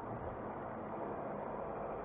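Steady car running noise, engine and tyre drone heard from inside a moving car.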